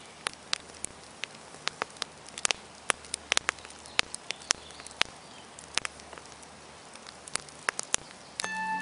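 Irregular crackling clicks and pops over a faint hiss and hum. Near the end, music starts with bell-like glockenspiel notes.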